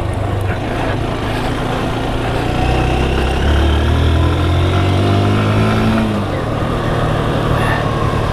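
Motorcycle engine running under way. Its pitch climbs steadily as it accelerates from about two and a half seconds in, then drops about six seconds in as the throttle eases off.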